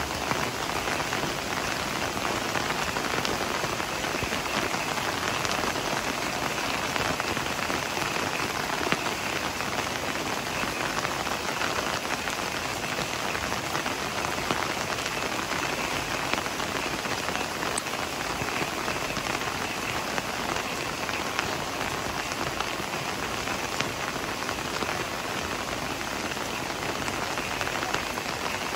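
Heavy rain falling steadily: a dense, even hiss made of many small drop impacts.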